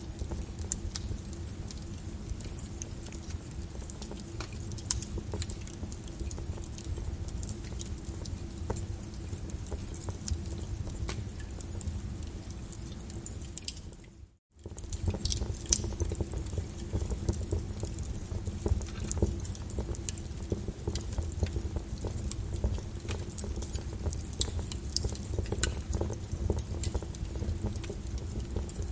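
Wood fire crackling in a fireplace: a low, steady rumble of burning with scattered sharp pops and snaps. The sound fades and cuts out for a split second about halfway through, then resumes.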